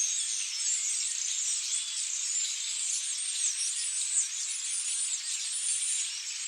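Large flock of European starlings chattering, a dense mass of high twitters, chirps and short whistles over one another; it cuts off suddenly at the end.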